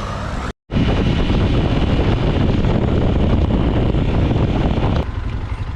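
Wind buffeting the microphone of a motorcycle rider at speed, a loud dense rush, after a brief cut to silence about half a second in; it eases near the end.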